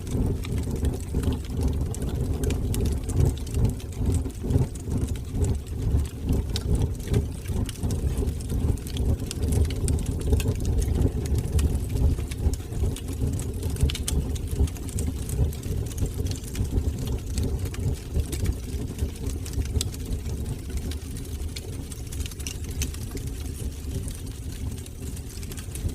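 Fire burning in a fireplace: a steady low roar of flames with frequent small crackles and pops.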